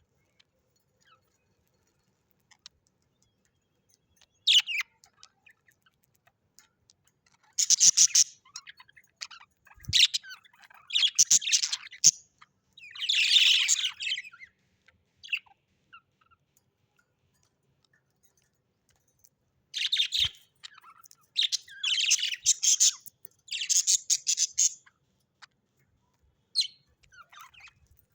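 Bird chirping in several short bouts of rapid high chatter, the longest lasting a few seconds, with silent pauses between them.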